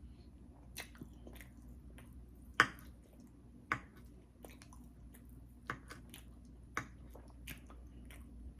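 Close-miked chewing of soft food (salmon and pasta), with wet mouth sounds and a few sharp clicks scattered through, the loudest about two and a half seconds in.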